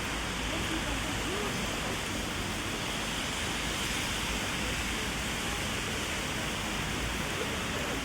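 Heavy rain falling steadily, an even hiss of rain on the street and on an umbrella overhead.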